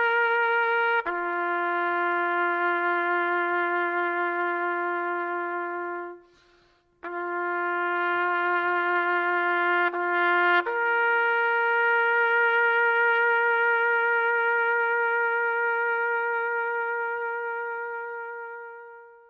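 Solo trumpet playing slow, long held notes: a note drops to a lower one about a second in, breaks off for about a second, returns, then rises to a last long note that fades out at the end.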